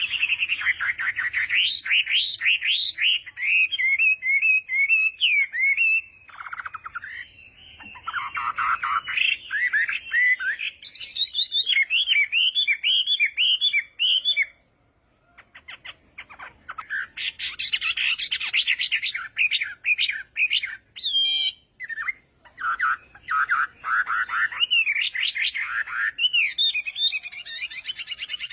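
Chinese hwamei (họa mi) singing: loud, varied phrases of rapidly repeated whistled notes, with short breaks and one near-silent pause of about two seconds halfway through before the song resumes.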